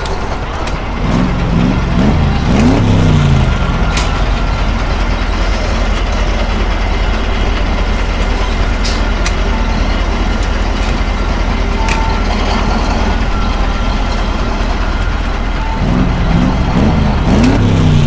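Engine sound effect of a large road vehicle such as a truck or bus, running steadily and revving up and back down twice: about a second in and again near the end. A few short clicks sound over it.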